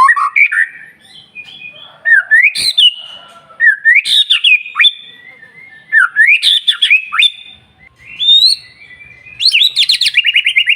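White-rumped shama singing: loud, varied whistled phrases that swoop up and down, with short pauses between them. Near the end it breaks into a fast run of rapidly repeated notes.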